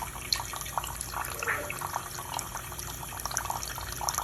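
Water running and splashing in a kitchen sink, with many small irregular splashes and drips as a Goffin cockatoo bathes in it under the tap.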